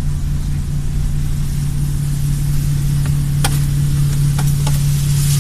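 Steady low drone of the Voskhod passenger hydrofoil's diesel engine under way, with a few short clicks about two thirds of the way through.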